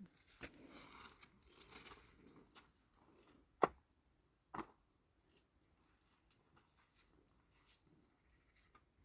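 Soft rustling and handling noises, then two sharp knocks a bit under a second apart, followed by faint scattered ticks.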